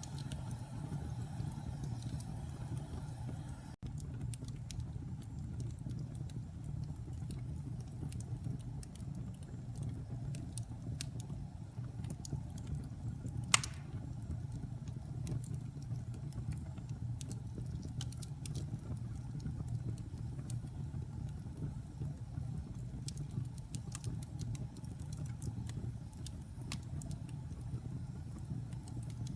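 Wood fire burning in a fireplace: a steady low rumble with scattered crackles and one loud pop about halfway through.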